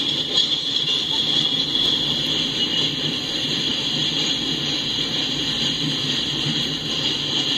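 Freight train cars rolling past at speed: a steady rumble of steel wheels on the rails with a steady high hiss over it.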